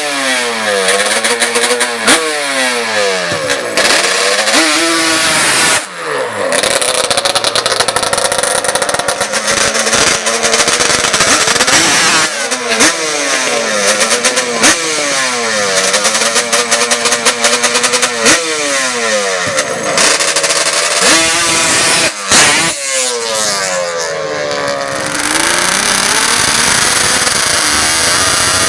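Drag-racing ATV engine revving hard over and over, its pitch climbing and falling back every couple of seconds, with one longer climb near the end.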